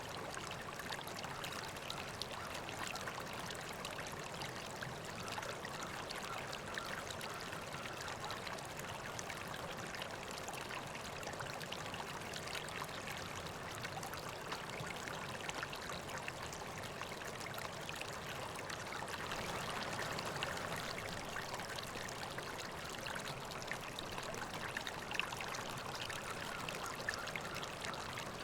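River water flowing steadily, a continuous rush that swells slightly about two-thirds of the way through.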